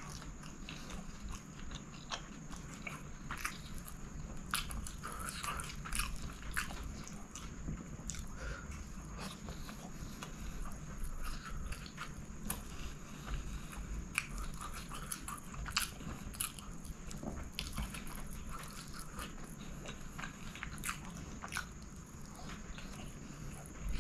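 Close-miked chewing of a mouthful of chicken kottu (chopped roti stir-fried with chicken), eaten by hand, with many irregular small clicks from the mouth and food.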